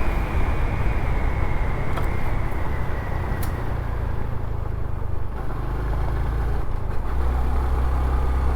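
Honda CT125's single-cylinder engine running under way, with road and wind noise around it. The engine note eases off about five seconds in and picks up again about two seconds later.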